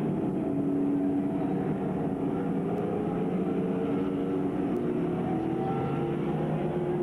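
Stock car engines running on the track: a steady drone whose pitch drifts slowly up and down as cars circulate.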